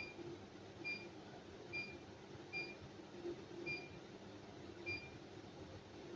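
Six short, high-pitched beeps from a Comersa dishwasher's control panel as its keys are pressed, spaced roughly a second apart, over a faint low hum.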